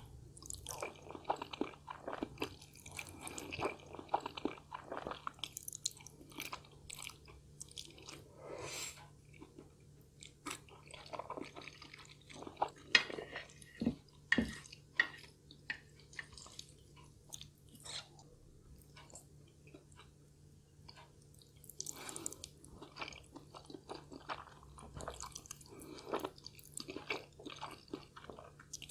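A person chewing food close to the microphone during a meal of black bean noodles and pork dumplings: irregular wet mouth clicks and smacks with some crunch, loudest a little before halfway through.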